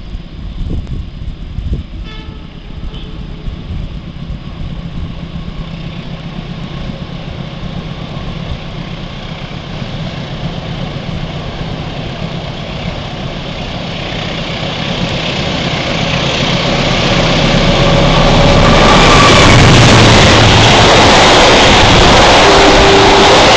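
CC203 diesel-electric locomotive's engine humming low as the train approaches, growing steadily louder. Over the last several seconds it gives way to the loud rumble and clatter of the passenger train crossing the bridge.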